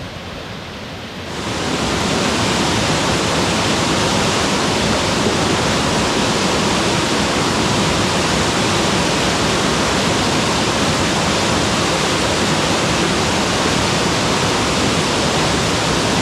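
Waterfall on a mountain creek: a steady rush of falling water that jumps louder and brighter about a second in, then holds.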